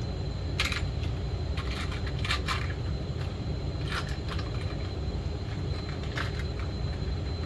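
Small metal nuts and hardware clicking and rattling in short bursts as they are sorted through by hand, over a steady low background hum.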